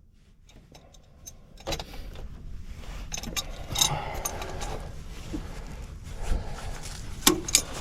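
Scattered light metallic clicks and knocks of hand tools and fittings being worked while the truck's secondary fuel filter is opened.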